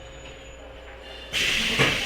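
Pneumatic door engines of a stopped JR West 103-series electric train. Quiet at first, then about a second and a half in a sudden hiss of compressed air as the sliding doors open, with a thud near the end.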